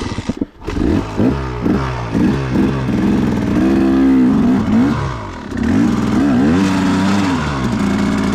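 Dirt bike engine revved hard in repeated rising and falling bursts, held at high revs twice, as the rider pins the throttle to drive a bike stuck in mud out of a tight spot while it is pushed.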